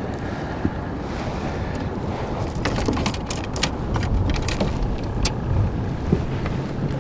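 Wind buffeting the microphone with water noise around a small fishing boat, a steady low rumble. A few sharp clicks and knocks come in the middle.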